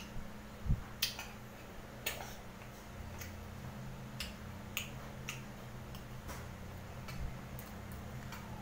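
Close-mouthed chewing: irregular wet clicks and smacks from a man's mouth as he chews food, about one every half second to second, with a single low thump under a second in and a steady low hum underneath.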